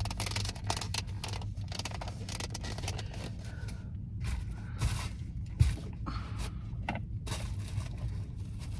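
Rustling and scraping of objects being rummaged through by hand, irregular and crackly, with one sharp knock about five and a half seconds in, over a low steady hum.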